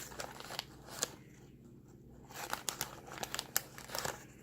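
Small plastic scoop scraping through baking soda and clicking against a plastic cup and container while measuring scoops. A few scattered clicks, then a busier run of scrapes and taps about two seconds in.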